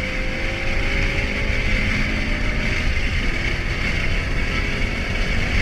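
A 2013 Ford Mustang GT's 5.0-litre V8 running steadily, with a continuous low rumble and a faint tone that drifts slowly down over the first couple of seconds.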